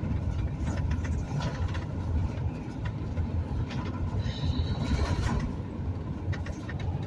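Road rumble heard from inside a moving vehicle on a rough, bumpy highway, with scattered knocks and rattles. A short high squeak sounds a little past four seconds in.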